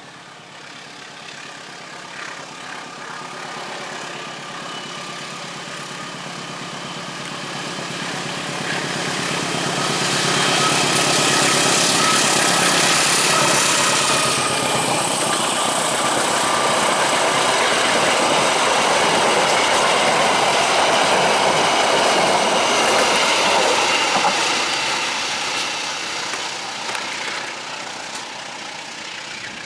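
A train passing: its running noise builds over about ten seconds, stays loud for about a dozen seconds, then fades away as it moves off.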